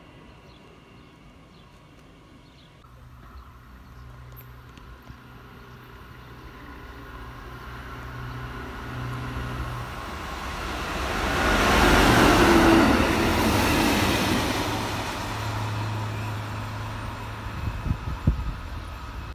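Yellow railway maintenance vehicle approaching and passing: a steady engine hum under rising wheel-on-rail noise that peaks about twelve seconds in, then fades. A few sharp knocks near the end.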